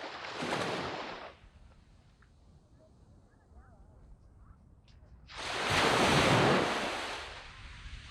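Sea waves breaking and washing up a sand beach: one wave right at the start, then a quieter lull, and a louder wave about five seconds in.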